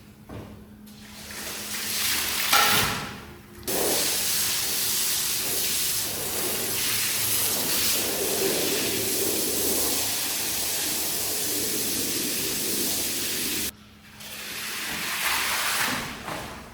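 Water spraying onto a rug under pressure, a steady hiss that runs for about ten seconds and starts and stops abruptly, with shorter swells of spray and splashing before and after it.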